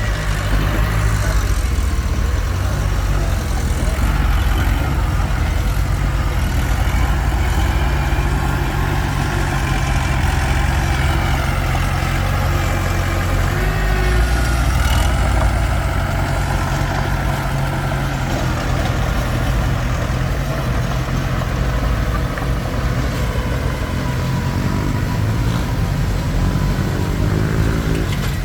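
Komatsu D21P crawler bulldozer's diesel engine running steadily under work, its pitch rising near the end.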